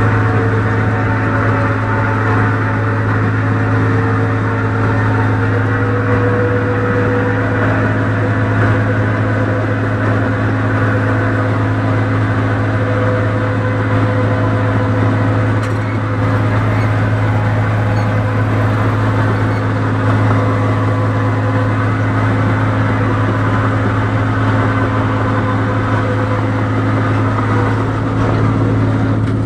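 Rice combine harvester's engine running steadily under load with a constant low hum.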